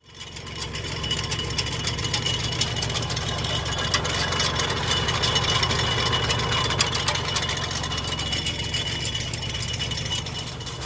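An engine running steadily at low speed. It fades in over the first second.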